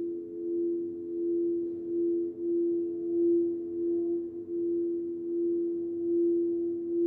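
Crystal singing bowls ringing together in a low chord of several held tones, the main tone swelling and fading in a slow pulse about once a second.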